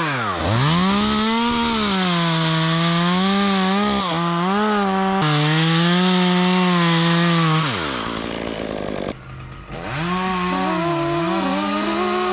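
Two-stroke chainsaw running at full throttle and cutting through wood, its pitch sagging and recovering as the chain bites. The engine falls off about eight seconds in, then revs up again for another cut about two seconds later.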